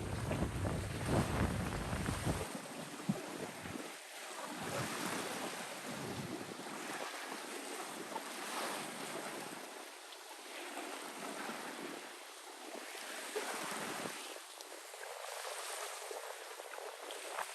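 Wind on the microphone over washing water, the noise rising and falling in slow swells; the low wind rumble is strong for the first couple of seconds, then drops away.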